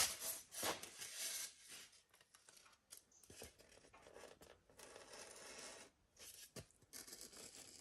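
Faint scraping and rubbing of a rigid foam insulation board being handled and marked, with scattered small clicks and knocks.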